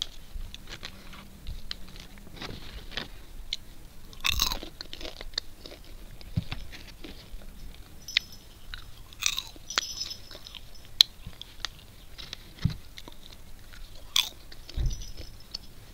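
A person chewing and crunching packaged popcorn, an irregular crackle of small crunches with a few sharper, louder cracks spread through.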